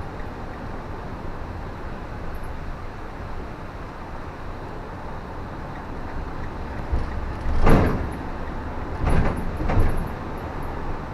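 Car driving on a rain-wet road: steady road and tyre noise with a low rumble. Near the end come three short, louder whooshes, the first the loudest.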